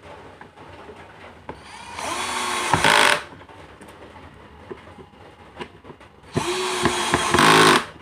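Feiskai cordless drill run twice, each time for about a second and a half, with a whine that climbs in pitch and gets louder near the end of each run. Faint small clicks sound between the runs.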